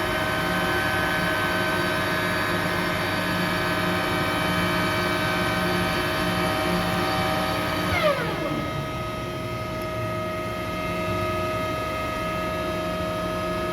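Carrier chiller running, a steady machine hum with a whine of several tones. About eight seconds in, a click and a whine that falls quickly in pitch, after which the hum goes on with less hiss.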